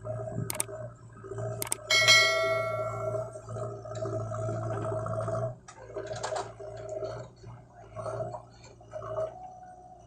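JCB 3DX backhoe loader working, its diesel engine and hydraulics running with a steady hum and whine. About two seconds in, a sharp metallic clang rings on. The machine sound drops after about five and a half seconds, leaving scattered knocks.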